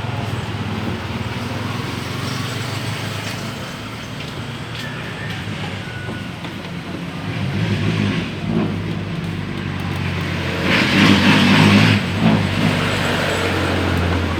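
A steady low motor hum runs throughout, with a louder burst of rough, hissing noise about eleven seconds in.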